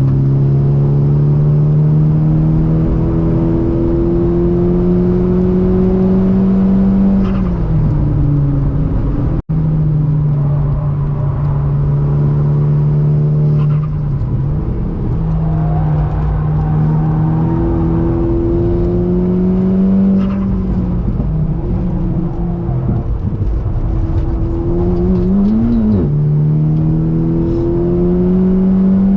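Volkswagen Golf 6R's turbocharged 2.0-litre four-cylinder under hard driving, heard from inside the cabin: the engine note climbs slowly under load, drops away about seven seconds in, then climbs again through several more dips, with a quick rev blip shortly before the end. The sound cuts out for a split second about nine seconds in.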